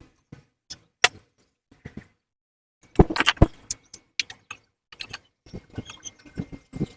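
Irregular metallic clicks, clinks and knocks of hand tools and hardware being handled. They are sparse at first, then come in a quick clatter from about three seconds in.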